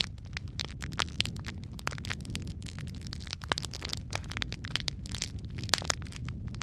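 Logs burning in a fireplace, crackling with many quick, irregular pops over a steady low rumble of the flames, a few pops standing out louder.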